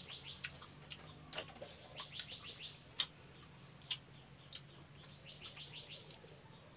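A bird gives a quick trill of about eight high chirps, repeated about every three seconds, with a few sharp clicks and smacks from eating close by, the loudest about three seconds in.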